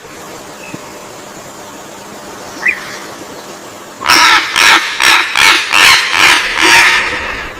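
A bird giving a run of about eight loud, harsh calls, two to three a second, starting about halfway through, over a steady background hiss; a single faint chirp comes earlier.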